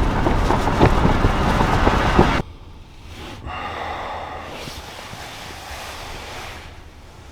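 Strong wind blasting the microphone, loud and crackling with sharp buffets, then cut off abruptly after about two seconds to a softer, steady rush of wind.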